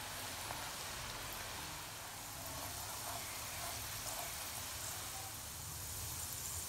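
Soaked mung beans sizzling steadily in hot sunflower oil, with a few faint small ticks from stirring.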